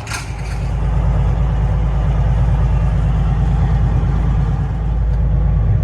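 Semi truck's diesel engine running with a steady low rumble, getting louder over the first second and then holding.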